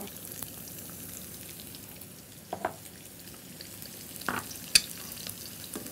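Sliced chorizo frying in hot oil in a stainless steel skillet: a steady sizzle, with a few brief clicks partway through.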